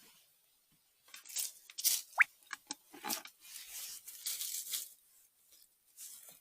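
Crunching and rustling of forest-floor litter and twigs underfoot and in the hands of a mushroom picker, in a run of irregular strokes, with one short rising squeak about two seconds in.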